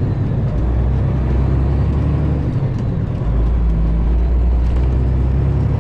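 Diesel engine of a Freightliner Classic XL semi-truck running on the road, a steady low drone whose pitch shifts about three seconds in.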